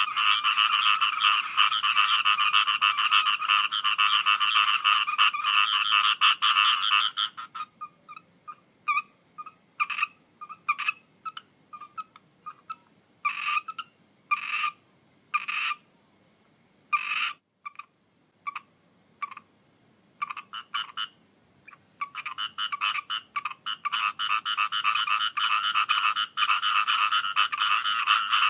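Chorus of frogs calling densely, then thinning to scattered single croaks about a quarter of the way in, and swelling back into a full chorus about three-quarters through.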